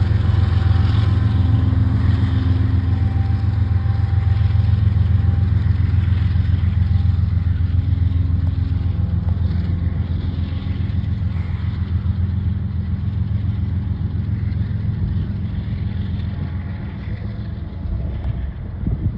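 Freight train rolling past: a dense, regular clatter of wheels on the rails over a steady low rumble, slowly fading and dropping away sharply near the end.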